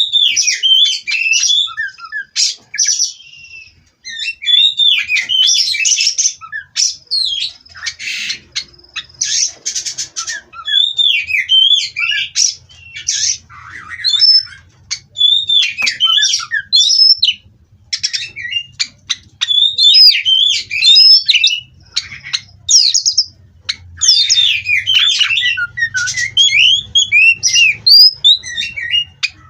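Oriental magpie-robin (kacer) singing: loud, fast runs of varied whistled notes mixed with harsh squawks, delivered in bursts with brief pauses.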